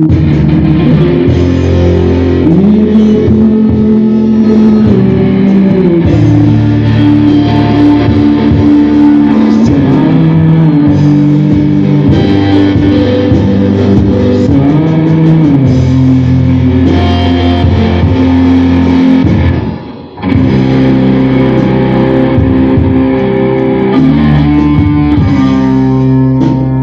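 Rock band playing live: an instrumental passage of guitar and bass holding sustained chords, broken by a brief stop about 20 seconds in before the band comes back in.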